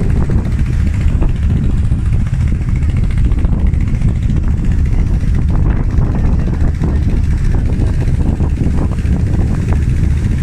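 A tour boat's engine running steadily under way, a constant low drone.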